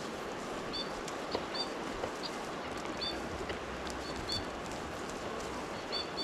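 Short, high chirps from a small bird, repeated irregularly several times over a steady outdoor background hiss, with a few faint ticks.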